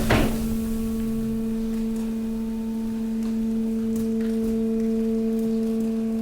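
Hydraulic pump of a waste compactor running with a steady hum, one tone with its overtones held at an even level, with a few faint crackles of waste now and then.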